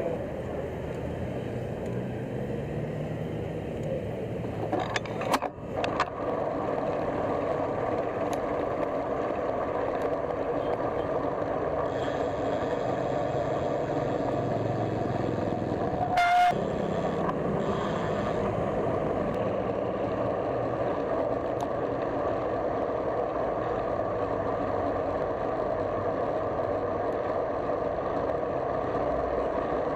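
Steady road traffic noise, with a couple of sharp clicks about five seconds in and a brief horn toot about halfway through.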